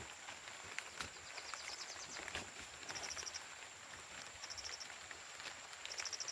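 Insects calling: a short, rapidly pulsed high chirp repeats about every second and a half over a steady high-pitched drone, with scattered faint ticks.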